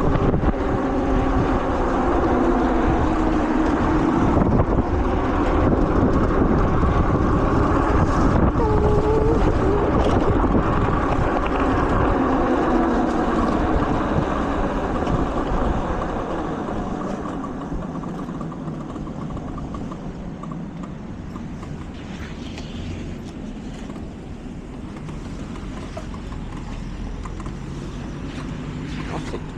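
A car engine running loud close by, its pitch slowly falling, fading away about halfway through and leaving quieter traffic and wind noise.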